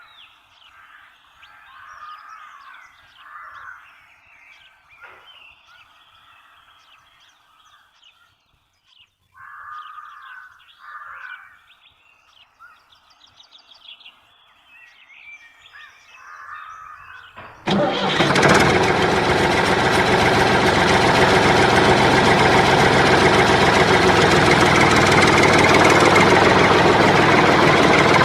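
Faint bird chirps, then about eighteen seconds in an engine starts abruptly and keeps running loud and steady.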